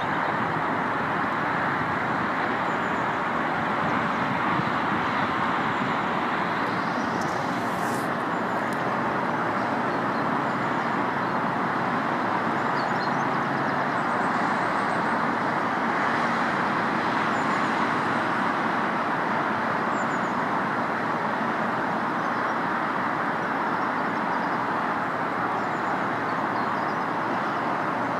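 Steady, even roar of distant road traffic, with faint high chirps of small birds here and there.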